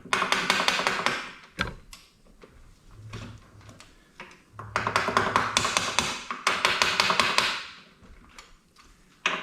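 Rapid tapping and rattling of small metal parts, in two spells: a short one at the start and a longer one of about three seconds starting near the middle.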